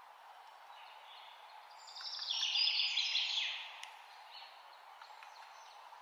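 A bird sings a loud, rapid high trill lasting about two seconds, starting about two seconds in, over a steady background hiss of nature ambience.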